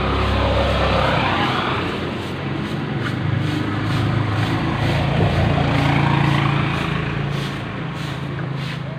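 Motor vehicle noise, as of traffic passing, swelling twice: once at the start and again later, with engine hum and sweeping pitch.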